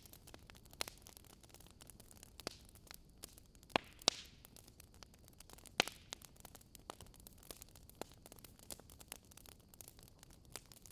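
Campfire crackling with a steady stream of small snaps and pops. A few louder snaps come about four and six seconds in, with a brief hiss around the four-second snap.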